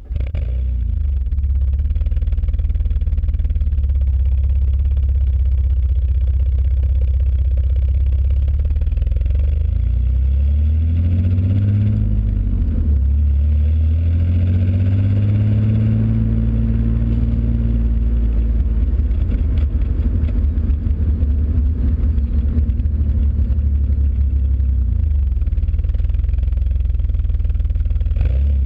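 Alfa Romeo 166 3.0 V6 exhaust, recorded with the microphone right at the tailpipe, which exaggerates the hiss. The engine idles steadily, is blipped up about ten seconds in, then revved up and held before falling back to idle, and idles again to the end.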